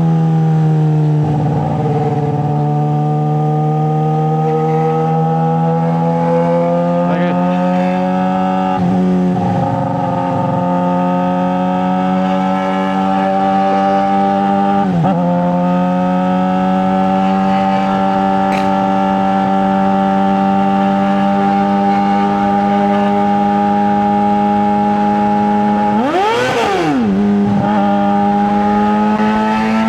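Straight-piped 2009 Suzuki GSX-R600 inline-four engine running loud at steady, fairly high revs, its pitch creeping slowly upward. It drops briefly a few times and gives one quick rev up and back down near the end.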